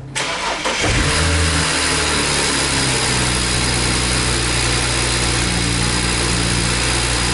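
Cold start of a BMW 135i's turbocharged inline-six: it cranks and catches about a second in with a short rev flare, then settles into a steady fast idle. The engine has a lifter tick that the owner calls nothing too bad, from the car having sat for a week.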